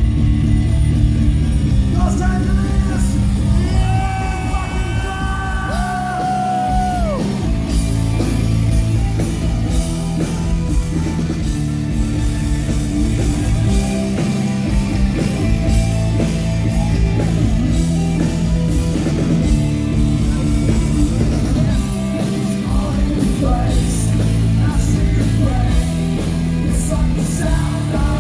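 Rock band playing live with singing. A voice holds long notes a few seconds in, then slides down about seven seconds in, over steady drums and bass.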